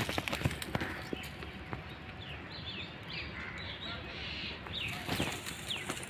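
Outdoor ambience with small birds chirping, a run of short falling calls through the middle, and a few light clicks in the first second.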